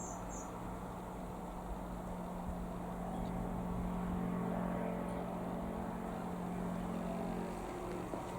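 Single piston engine of a Zenair CH-601HD Zodiac light aircraft running at a steady note, growing a little louder from about three seconds in.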